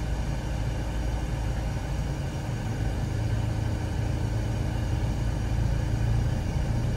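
Car engine idling, heard from inside the cabin: a steady low hum that grows slightly stronger about three seconds in.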